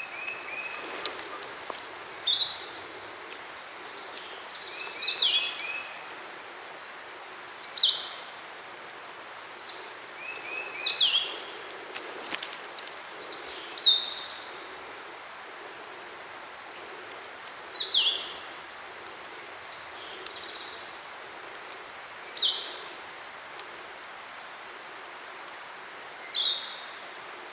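Songbirds calling: a short, sharp call that slides downward, repeated every few seconds, with a lower, quick stuttering run of notes three times in the first half. A steady background hiss runs under the calls.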